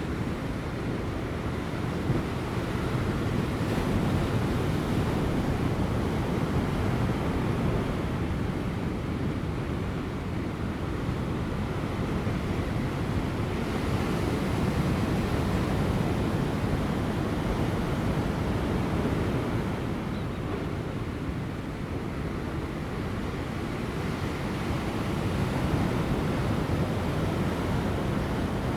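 Large ocean waves breaking on offshore rocks with light wind: a steady, deep surf wash that swells and eases slowly.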